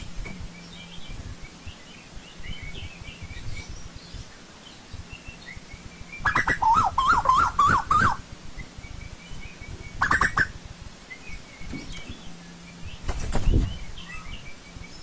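Asian koel calling: a loud run of rapid, wavering notes about six seconds in, with shorter calls near ten and thirteen seconds. Faint chirps of other birds go on between the calls.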